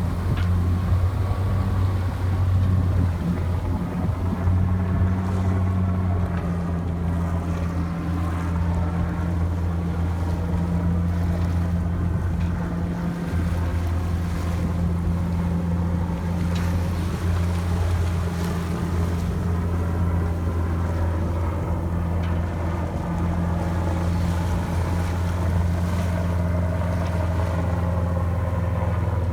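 Boat engine running at a steady speed, a constant low drone, with water noise over it.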